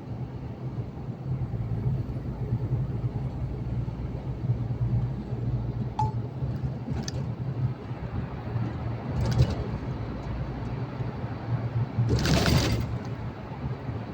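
Heavy truck heard from inside the cab, its engine and the road making a steady low drone, with small clinks and rattles. About twelve seconds in comes a short, loud burst of hissing noise.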